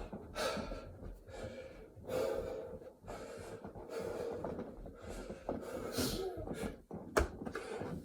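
A man breathing hard in heavy, gasping breaths, about one every one and a half to two seconds, winded midway through a set of burpees. A sharp knock about seven seconds in.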